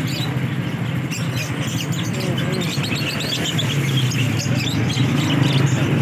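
Many caged birds chirping in quick, overlapping high calls, over a steady background murmur.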